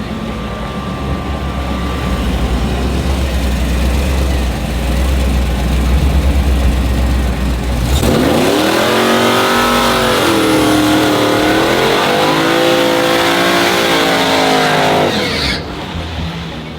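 Drag-racing trucks' engines rumbling low for several seconds, then one launching hard about halfway in. The engine note climbs, drops back at gear changes and climbs again, then fades near the end.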